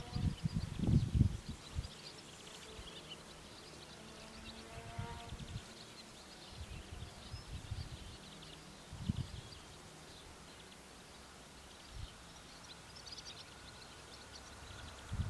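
Rural outdoor ambience: small birds chirping over a faint background hiss, with irregular low bumps, loudest about a second in.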